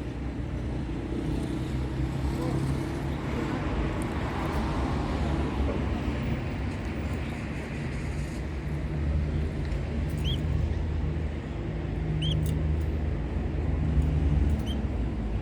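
A canary giving three short, high chirps in the second half, over a steady low background rumble.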